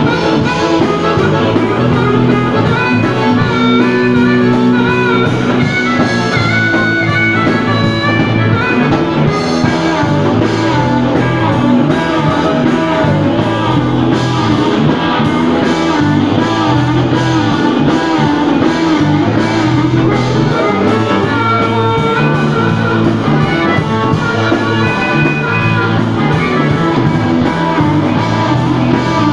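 Blues band playing an instrumental passage, a guitar carrying the melody over bass and drums.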